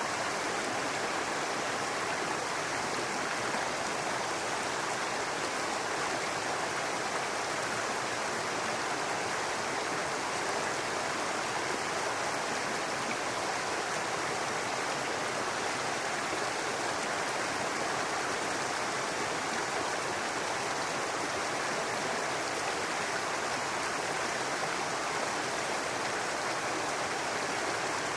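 Brook water babbling and running over rocks, a steady, even rush with no pauses.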